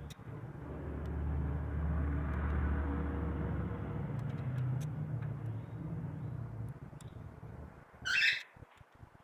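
Low rumble of a passing motor vehicle, swelling over a couple of seconds, holding, then fading away. Near the end comes a single short, loud bird call.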